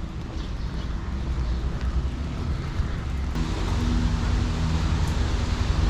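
Low engine rumble of a motor vehicle in street noise, growing louder from about halfway in.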